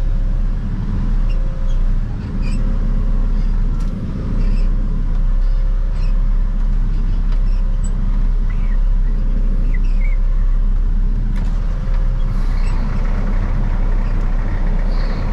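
Heavy gravel truck's diesel engine running steadily: a deep, even rumble with a faint steady whine above it.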